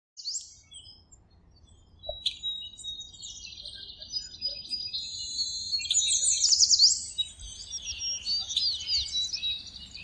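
Small songbirds chirping and twittering, several overlapping in quick high whistles and rising and falling sweeps, busiest about six to seven seconds in.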